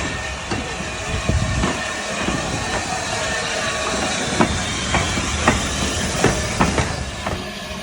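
Steam train rolling past, its wheels clicking over the rail joints about a dozen times, with a steady hiss of steam.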